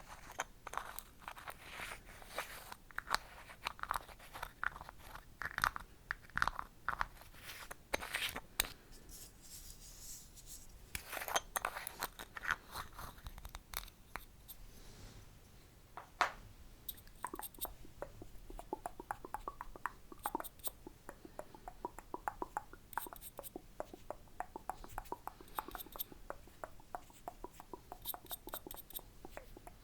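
Close-up wet mouth sounds: rapid tongue clicks and lip smacks in irregular clusters, with short pauses between them.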